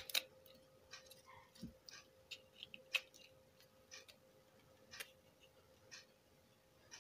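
Faint sharp clicks, about one a second, over a faint steady hum.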